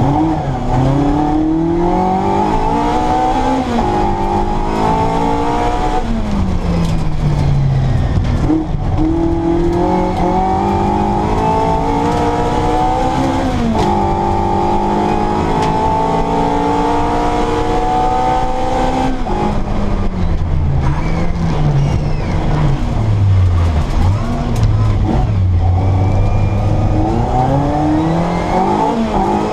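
Mini Cooper S four-cylinder A-series engine with an Arden 8-port cylinder head and twin Weber 40 DCOE carburettors, revving hard up through the gears. The pitch climbs repeatedly and drops sharply at each shift, with dips and climbs on lifts and downshifts near the end.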